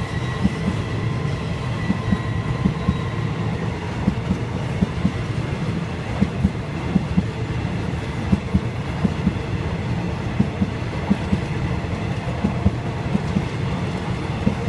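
Passenger coaches of a Thai railway train rolling past close by: a steady rumble with the clickety-clack of wheels striking rail joints, the clicks coming in regular pairs as each bogie passes over.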